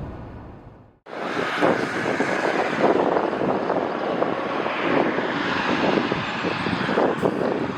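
Steady rushing noise without speech, starting after a brief drop-out about a second in.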